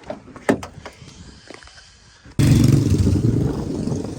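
Car engine and road noise that starts suddenly about halfway through and runs on steadily, heavy in the low end. Before it there are only faint scattered clicks.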